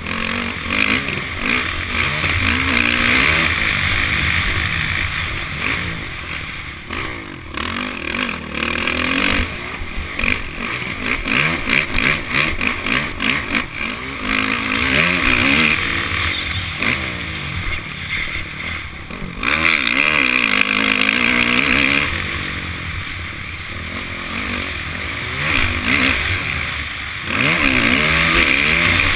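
Honda CRF450 motocross bike's four-stroke single-cylinder engine racing, the revs repeatedly climbing and dropping as it accelerates and shifts, with wind noise on the onboard camera's microphone.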